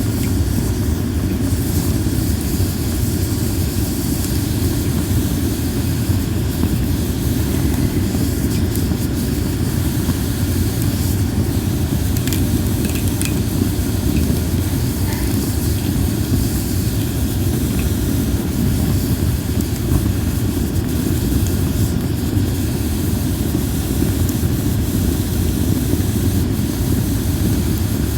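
Linden-wood campfire burning with a steady low rushing rumble of flames, and a few faint crackles near the middle.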